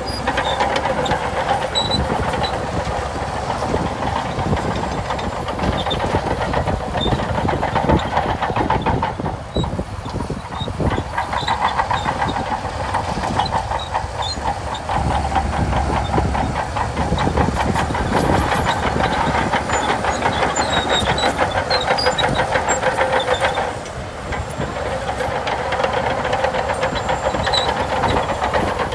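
Shantui DH17C2 crawler bulldozer at work: diesel engine running under load with a fast, continuous clatter of the steel tracks and a steady whine over it. The sound eases briefly about ten seconds in and again about twenty-four seconds in.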